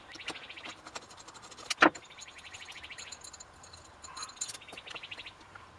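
Ratcheting hand tool clicking in quick, even runs as a fastener is backed out of a McCulloch MAC 3516 chainsaw, with one sharp metallic knock about two seconds in.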